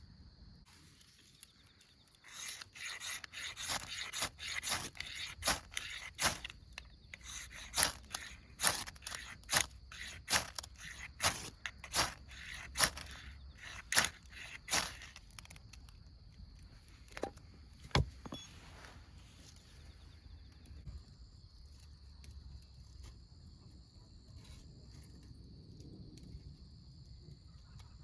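A run of quick scraping strokes, about one a second, from lighting a campfire by hand; they stop a little over halfway through. Crickets chirp steadily throughout.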